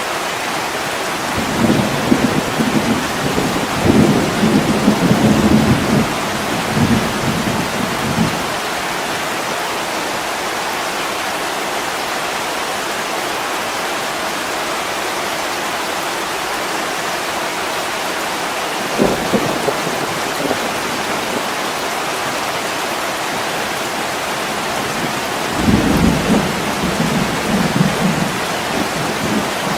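Steady heavy rain falling on a window glass. Low rolls of thunder rumble for several seconds near the start, briefly just past the middle, and again near the end.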